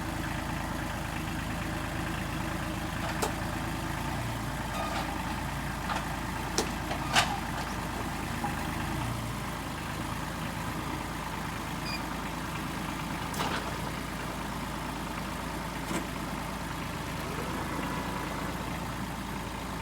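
Small tractor engine running steadily, with a few sharp knocks, the loudest about seven seconds in.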